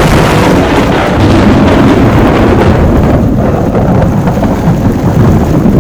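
Heavy rain with a loud, steady rumble of wind buffeting the microphone, coming in abruptly.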